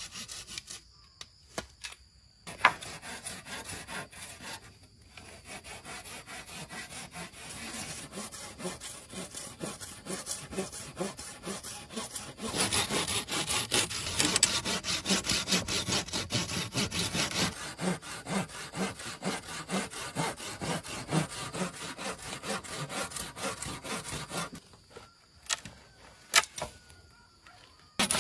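A hand saw cutting through wood in steady back-and-forth strokes, louder for a stretch in the middle. It stops for a few seconds near the end, where a couple of sharp clicks are heard.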